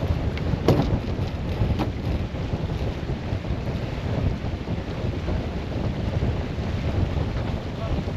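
Wind buffeting the microphone aboard a sailboat underway in rain, a steady low rumble of wind and water, with a couple of sharp taps in the first two seconds.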